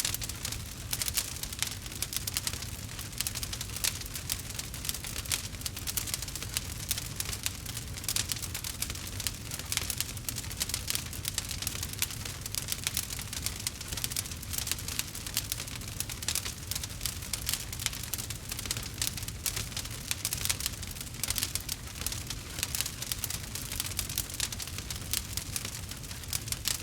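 Campfire crackling: a dense, continuous stream of small pops and snaps over a low rumble.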